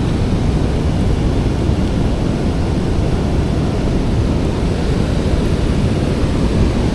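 A steady rushing noise, heaviest in the low end, with no separate sounds standing out of it.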